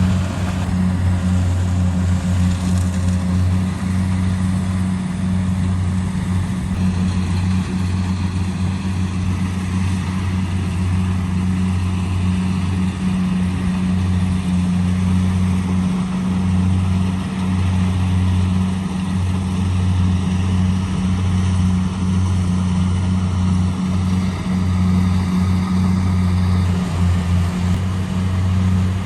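Kubota DC70 Pro combine harvester running steadily at working speed, a constant low engine hum.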